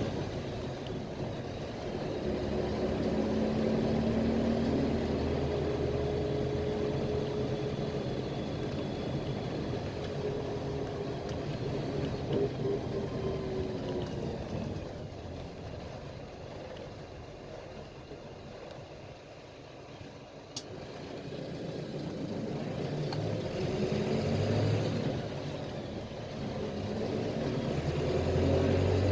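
PAZ-320405-04 Vector Next bus under way, heard from inside: the engine runs with its pitch rising and falling, eases off and quietens about two thirds of the way through, then picks up again near the end, over road noise.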